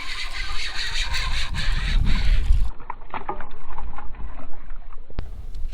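Wind rumbling on the microphone for the first few seconds, then scattered light clicks and knocks from handling gear in a paddle boat while a bass is landed.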